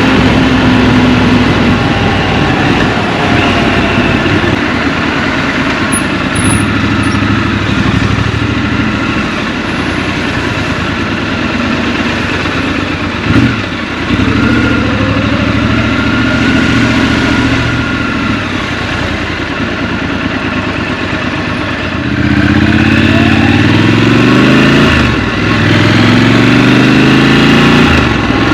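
Scrambler motorcycle engine heard from the saddle, over a rush of noise. It runs at low, fairly steady revs for most of the time, with one short sharp blip about halfway through. Near the end it climbs in pitch as the bike accelerates through the gears.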